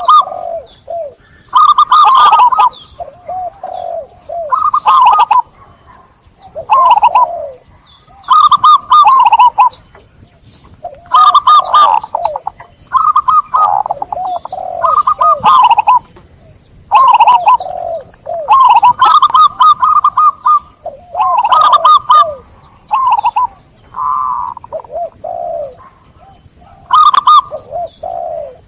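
Zebra dove (perkutut) cooing: a loud, repeated song phrase every two to three seconds, each a quick run of rippling notes that drops to lower coos.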